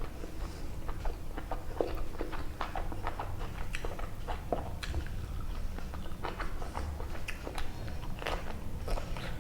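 Close-miked eating sounds: a person chewing and biting a meal of chicken curry and rice, with irregular wet clicks and crunches over a steady low hum.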